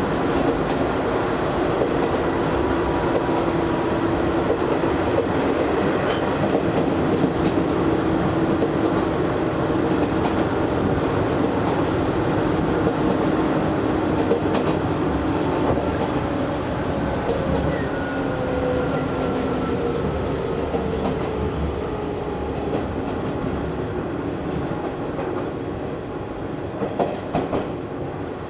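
Interior running noise of an Izu Hakone Railway Series 3000 resistance-controlled electric train between stations: steady wheel and rail rumble with the traction motors' hum. In the second half the motor tones slowly sink in pitch and the noise eases a little as the train loses speed, and a few knocks from the wheels come near the end.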